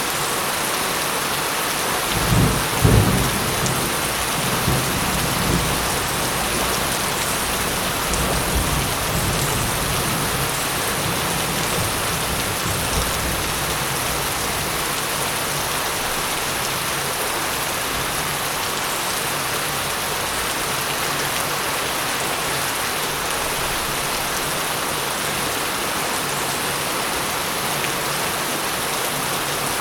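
Steady rain falling, with a thunderclap about two seconds in whose low rumble rolls on and fades away over about ten seconds.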